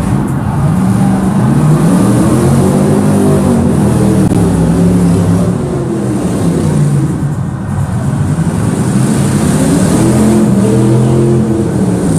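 Engine at a monster truck show revving, its pitch climbing and falling in slow sweeps several times.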